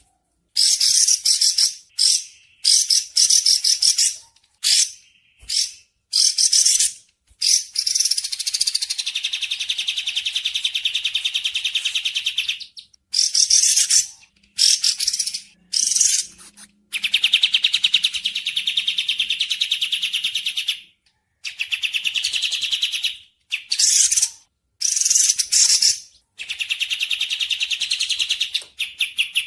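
Bird calls in loud, high, rapid trills and chattering phrases with short gaps between them. Two of the trills run on steadily for several seconds, about a third and two-thirds of the way through.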